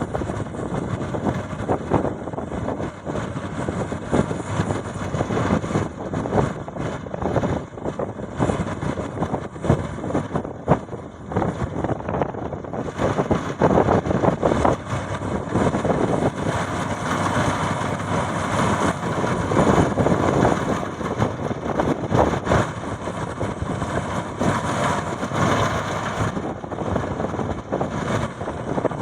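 Maxxi Bimo 102 X Top combine harvester running, a steady engine and machinery noise that turns brighter and hissier about halfway through.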